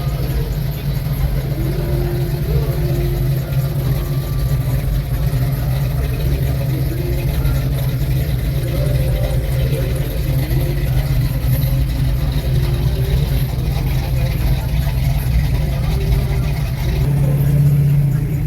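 1968 Chevy truck's 468 big-block V8 running steadily with a deep exhaust note, getting a little louder near the end.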